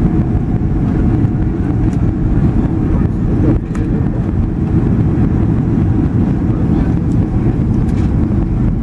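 Boeing 767-300 cabin noise on final approach: a steady low rumble of the engines and the airflow past the fuselage.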